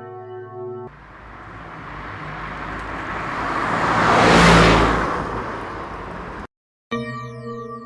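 A rushing whoosh like a vehicle passing by swells to a loud peak about halfway through, then fades and cuts off suddenly. Intro music plays before and after it.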